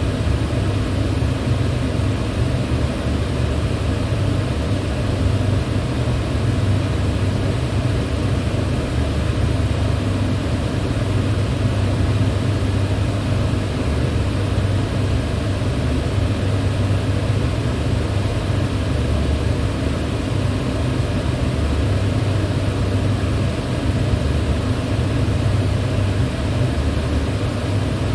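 Electric fan running steadily: an even rush of air over a low motor hum, with no change in speed.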